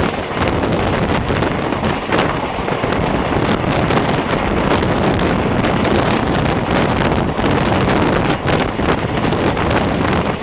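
Wind buffeting the microphone over the steady running noise of a moving Indian Railways express train, with short irregular knocks from the wheels on the track.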